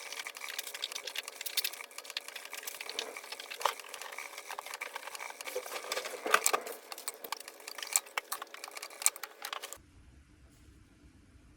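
Sewing machine stitching, a dense rattle of rapid clicks that stops abruptly near the end.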